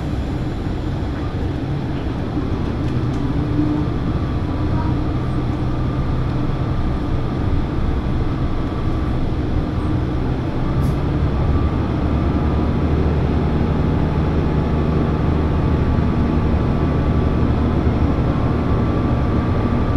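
Diesel railcar running, heard from inside the cabin: a steady engine drone under rolling wheel noise. About halfway through, the engine note shifts and the sound grows a little louder.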